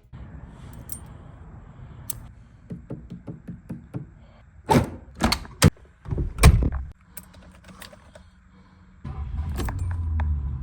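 Handling noises: a run of light clicks and knocks, a few heavier thuds and knocks around the middle, then a low rumble near the end.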